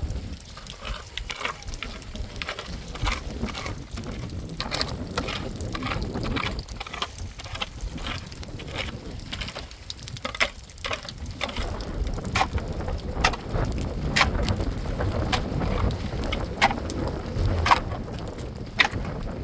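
Wind rumbling on the microphone under irregular sharp taps and clicks, several a second.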